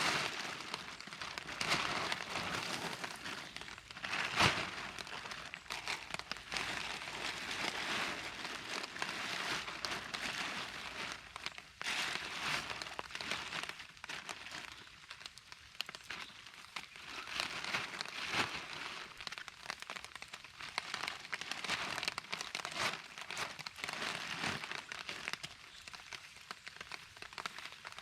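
Rustling and crackling that swells and fades every couple of seconds, with a sharper crackle about four and a half seconds in.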